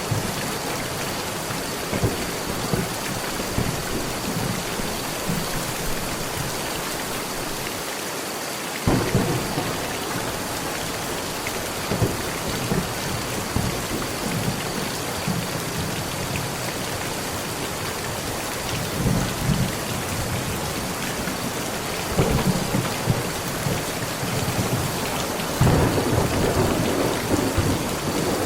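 Heavy rain falling on a metal roof in a steady hiss, with thunder breaking in several times as low rolling rumbles. The thunder grows heavier near the end.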